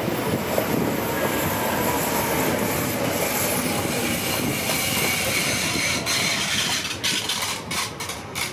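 Rodalies de Catalunya electric commuter train passing close by, a steady loud rush of wheels on rails with faint high tones over it. It fades near the end, with a few sharp clacks as the last cars go by.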